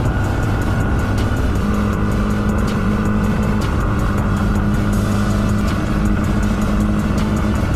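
Motorcycle engine running at a steady cruise with wind rushing over the microphone, a steady hum that shifts to a higher tone about one and a half seconds in.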